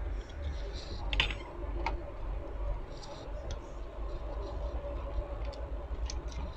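Light clicks and taps of tools on a washing machine control board while a burnt resistor is being removed, with a few short hisses, over a steady low hum.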